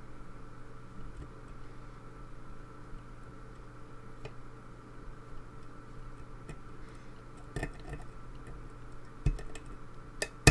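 Scattered light metallic ticks and clicks of a pick working the pins of a pin-tumbler lock held under tension, with one sharper click near the end, over a steady low hum.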